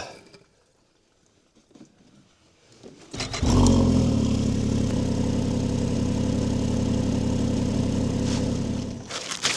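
Snowmobile engine starting about three seconds in and then running steadily at idle, dropping away near the end.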